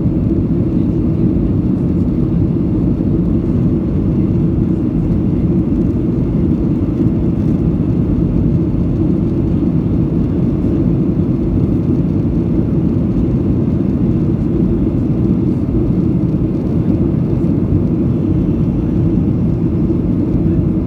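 Steady, even low rumble of a flydubai Boeing 737 climbing after takeoff: engine and airflow noise as heard inside the passenger cabin.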